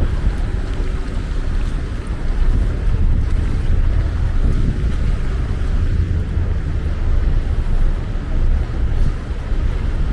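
Wind buffeting a DJI Pocket 2 camera's microphone: a loud, uneven low rumble, with faint street noise underneath.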